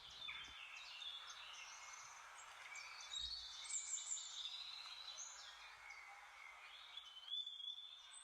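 Several small songbirds chirping and singing at once, their quick overlapping phrases faint and high-pitched.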